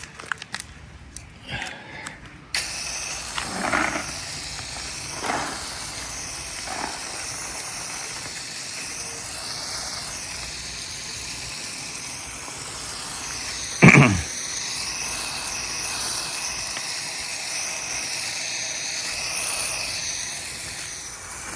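Garden hose spray nozzle wetting a freshly dry-poured concrete slab to hydrate and cure it: a steady hiss that starts suddenly a couple of seconds in. About fourteen seconds in, a short, loud sound falls sharply in pitch.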